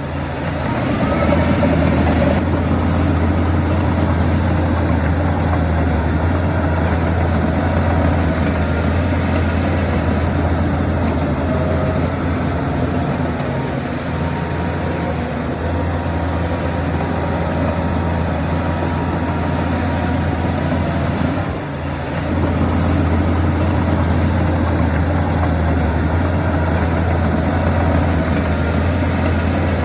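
Heavy diesel engine of earthmoving machinery running steadily, a deep continuous hum, with a brief drop in level about two-thirds of the way through.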